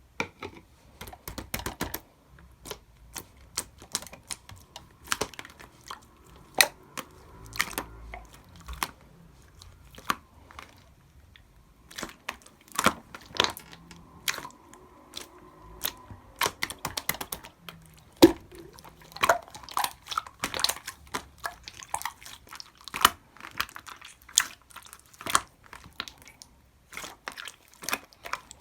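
Clear slime being handled: pressed, poked and stretched, making many irregular sharp clicks and pops.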